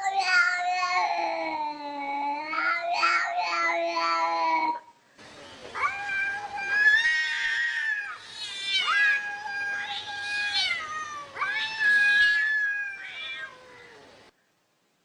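An animal's long, wailing cries: a lower bending cry lasting about five seconds, then after a brief break a series of higher, drawn-out held cries that fall away at their ends, cut off suddenly near the end.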